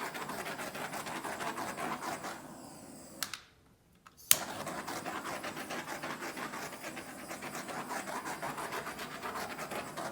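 Handheld butane torch flame hissing with a fluttering rush, popping air bubbles in wet acrylic pour paint. It cuts out about three and a half seconds in, is relit with a sharp click about a second later, and burns steadily until it stops at the very end.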